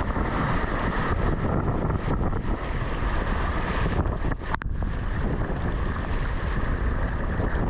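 Wind buffeting the microphone over rushing river water, a steady noise with a brief dip about halfway through.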